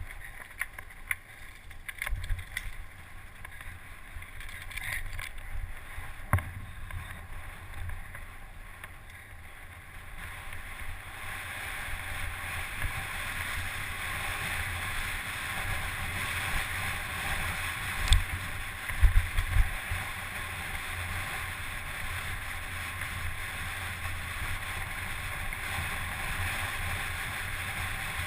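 Steady rushing noise that grows louder and fuller about eleven seconds in, with scattered sharp knocks early on and a few heavy thumps past the middle.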